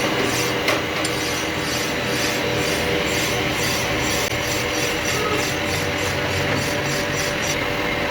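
Rhythmic rubbing strokes on metal, about three a second, over a steady low machine hum; the strokes stop shortly before the end.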